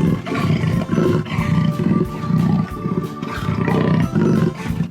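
Big cat roaring and growling in a string of short, rough bursts, about two a second, over background music.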